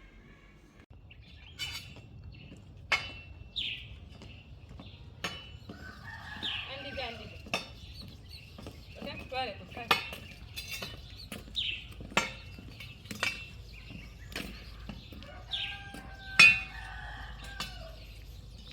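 Rooster crowing twice, about six seconds in and again near the end, with short sharp chirps and clicks from poultry and small birds between the crows.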